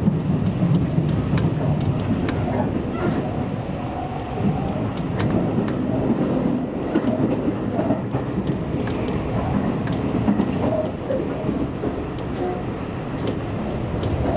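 Seibu Railway commuter train running at speed, heard from inside the car: a steady low rumble with a few sharp clicks from the wheels over rail joints.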